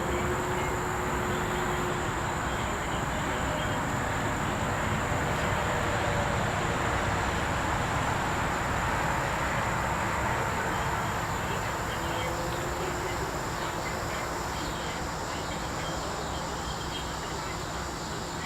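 Steady high-pitched insect chorus of crickets or katydids, one unbroken tone over a low, even rumble.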